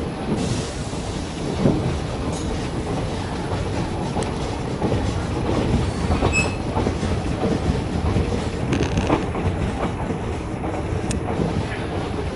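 DEMU (diesel-electric multiple unit) train running along the track, its wheels clattering over rail joints over a steady rumble, with a brief high squeal about six seconds in.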